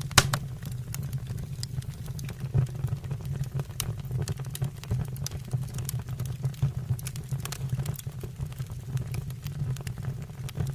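Wood fire burning in a stove or fireplace: irregular crackles and pops over a steady low rumble, with one loud crack just after the start.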